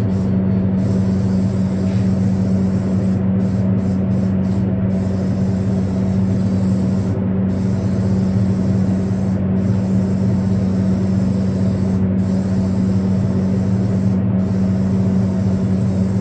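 Steady machine drone: a strong, even electric-motor hum with a hiss over it, holding constant with no change in pitch or level.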